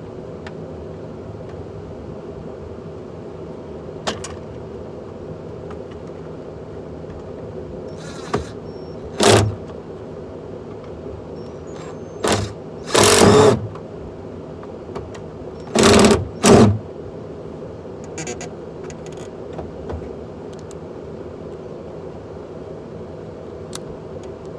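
Steady low hum, broken by several loud, short rattles and knocks from hands-on work on a pickup truck's door and its off-track power window, the loudest about halfway through.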